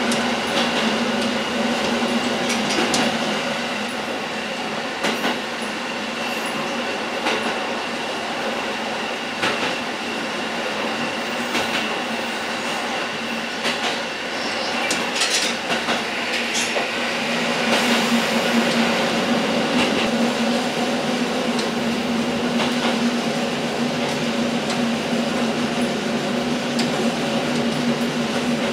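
KiHa 11 diesel railcar running along the line: the steady drone of its diesel engine, with clacks from the wheels over rail joints about every two seconds.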